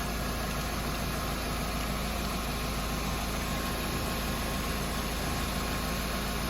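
Nissan Versa Note's 1.6-litre four-cylinder engine idling steadily.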